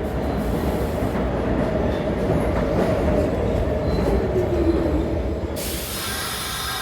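NYC Subway R46 train running on the tracks: a steady, loud rumble with a wheel-squeal tone over it. A little over five seconds in, the sound changes abruptly to a brighter hiss with several steady high tones.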